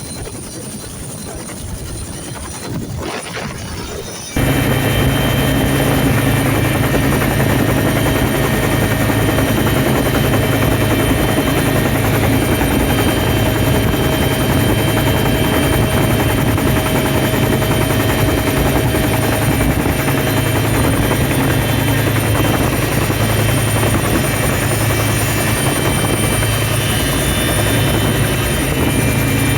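Sri Lanka Air Force rescue helicopter running close by, its rotor and engine making a loud, steady noise; the sound jumps suddenly louder about four seconds in.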